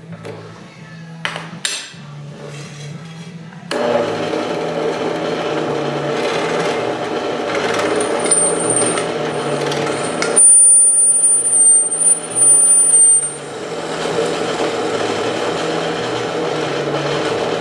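Electric drill starting up about four seconds in and running steadily as it bores, with a high squeal from the bit partway through; the bit is totally dull and cutting poorly.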